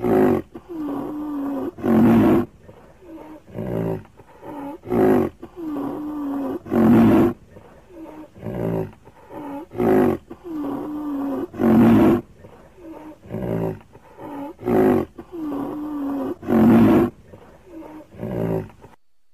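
Loud, deep animal calls repeating as a loop: short heavy calls followed by a drawn-out lower call with a wavering pitch. The same sequence comes round about every five seconds and cuts off near the end.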